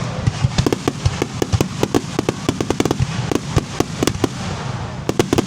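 Fireworks crackling: a dense, irregular run of sharp pops and cracks over a steady low rumble.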